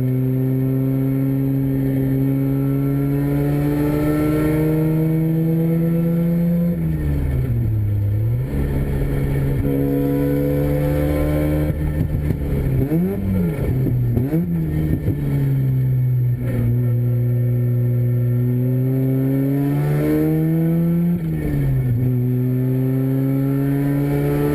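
Mazda Renesis two-rotor rotary engine in a race car, pulling on track. Its note climbs steadily in pitch, then drops sharply about a third of the way in, again just after the middle and near the end, with some unsettled back-and-forth in pitch in between.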